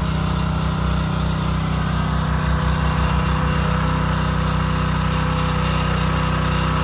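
Hot water pressure washer running steadily, its small engine-driven pump humming under a continuous hiss of high-pressure water spray.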